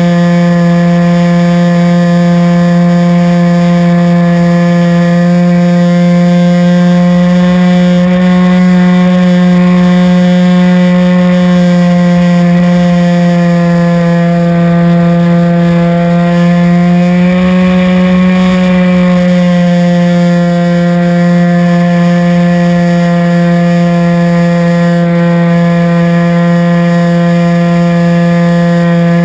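RC airplane's motor and propeller running steadily at high power, one constant droning pitch that rises a little about seventeen seconds in and then settles back.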